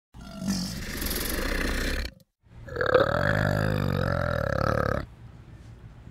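A short rough, rasping growl, then after a brief break a drawn-out, wavering guttural call from an orangutan that lasts a couple of seconds.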